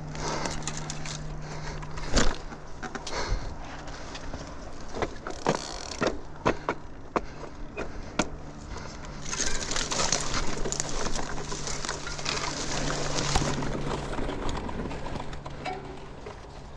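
Mountain bike rolling over a rough dirt trail: tyre noise on dirt with repeated knocks and rattles from the bike, and a rushing noise that swells strongly for several seconds in the middle.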